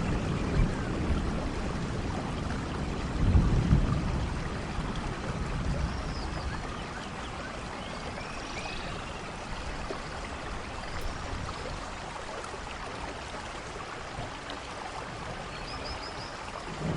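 Steady rainfall with a low rumble about three seconds in.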